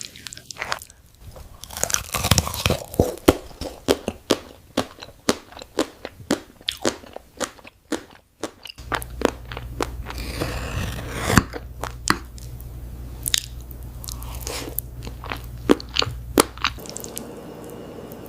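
Close-miked eating of crunchy food: a fast, irregular run of sharp crunches from bites and chewing. A low steady hum comes in about nine seconds in, under more crunches.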